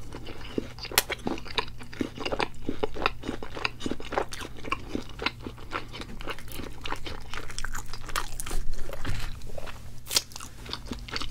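Close-miked crunching and chewing of crispy fried food, with many sharp, irregular crunches in quick succession.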